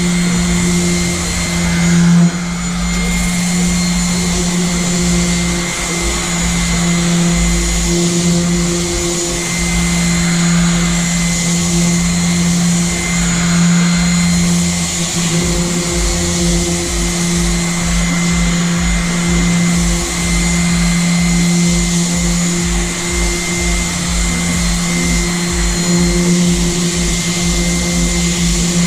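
Electric power sander running steadily with a constant motor hum, sanding back the paint on a boat's alloy hull.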